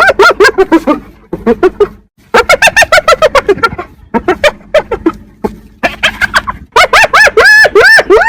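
Spotted hyena giggling: loud, fast strings of short, pitched, rising-and-falling whoops in several bouts with brief pauses between them, strongest near the end.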